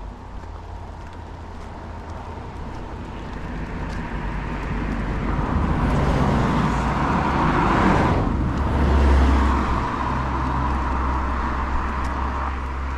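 A motor vehicle approaching and passing, growing steadily louder over about eight seconds and loudest around nine seconds in, with a low rumble underneath.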